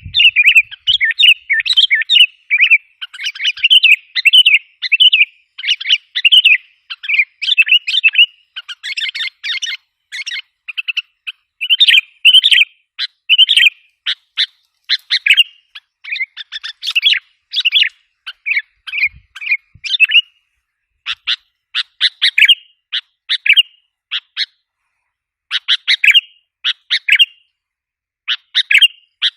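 Sooty-headed bulbul (kutilang) calls used as a lure recording: fast, excited chattering notes, dense and almost unbroken at first, then in short bursts with gaps after about twenty seconds.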